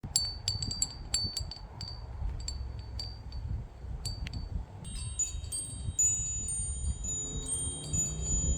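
High-pitched metal chimes tinkling: quick light strikes for the first four seconds or so, then from about five seconds in several clear tones ringing on together, over a steady low rumble.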